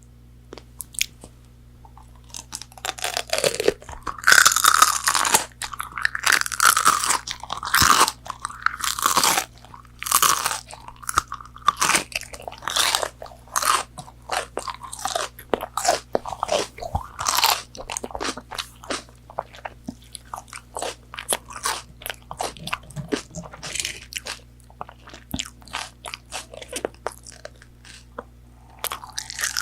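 Close-miked crunching as crispy McDonald's chicken nuggets are bitten and chewed. The crunches start about two seconds in and come thick and loud for some fifteen seconds, then thin out into sparser chewing with a short lull near the end.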